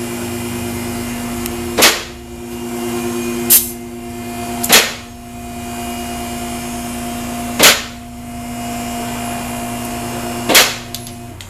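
Five sharp metallic clicks or knocks at irregular intervals, typical of hand tools being handled on an engine, over a steady low hum.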